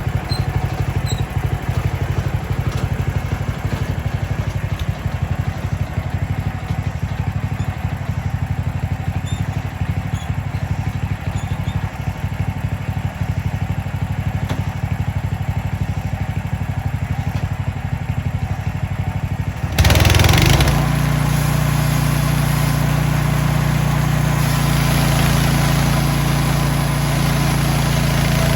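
Small gasoline engine of a Mechmaxx band sawmill idling steadily, then about twenty seconds in it is suddenly throttled up and runs on louder at a higher speed.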